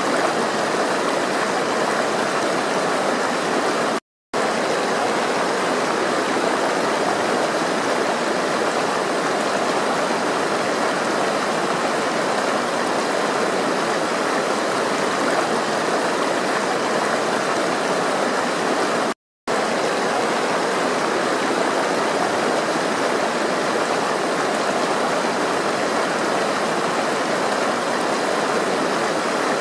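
Flowing water rushing in a steady, even stream, cut off completely twice for a fraction of a second each.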